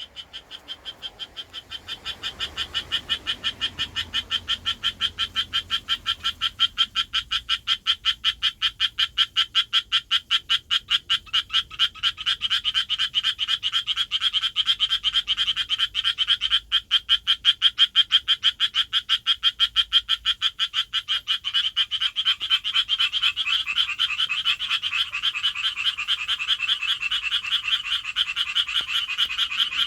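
Japanese tree frog giving its courtship call: a fast, steady run of short raspy notes, several a second, kept up without a break.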